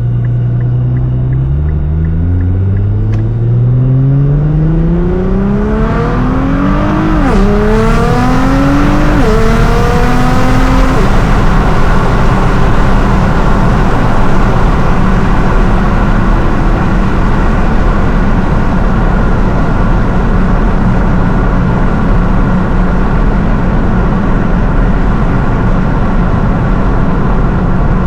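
Nissan R35 GT-R's twin-turbo V6, tuned to about 750 hp, pulling hard: the engine pitch climbs steadily, drops at two quick upshifts about seven and nine seconds in, climbs again, then settles into a steady drone of engine, tyres and wind at speed.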